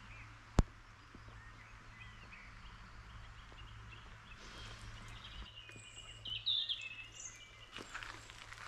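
Faint outdoor ambience with small birds chirping and calling, a brighter spell of birdsong about six and a half seconds in. A single sharp click, the loudest sound, comes less than a second in.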